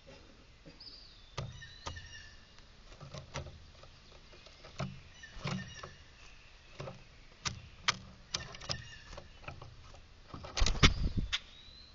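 Irregular sharp taps and knocks, with a denser, louder clatter near the end. Faint high bird chirps come in near the start.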